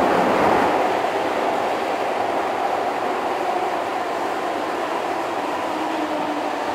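Running noise heard inside a Keihan 2600-series electric train car under way: a steady rumble of wheels on rail and the car's running gear, with faint steady tones in it, easing slightly in level after about a second.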